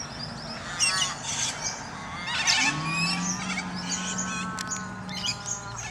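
A flock of white cockatoos screeching harshly in short bursts, the loudest about one second in and again at two and a half seconds, among chirps and calls from other birds.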